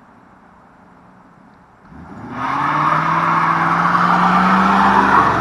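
1991 Ford Crown Victoria's 5.0-litre V8 running quietly, then revved hard about two seconds in, the pitch rising quickly and holding at high revs.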